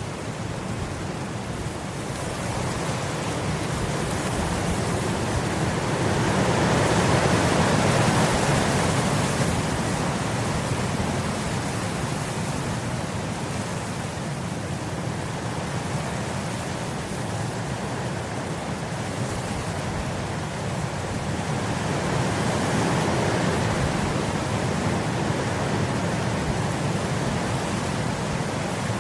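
Wind blowing through grass as a steady rushing noise that swells into two louder gusts, about a quarter of the way in and again past three-quarters.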